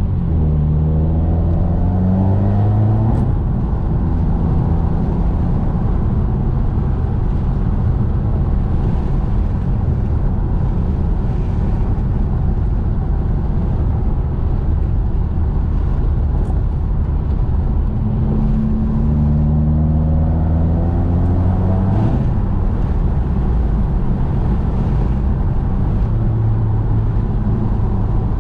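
Subaru WRX with its muffler and resonator deleted, its turbocharged flat-four engine running loud under way. The engine note climbs in pitch as the car accelerates, once at the start and again about eighteen seconds in, and stays steady in between.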